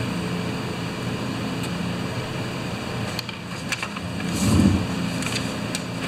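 Light clicks of small carburetor screws and parts being handled over a steady room hum, with a soft, louder thump about four and a half seconds in.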